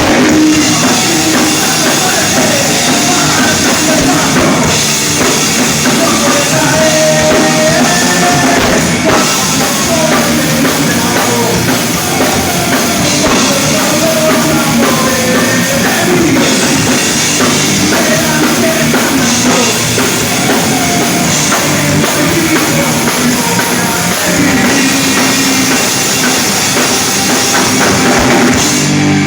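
Rock band playing live at full volume, with drum kit and electric guitars.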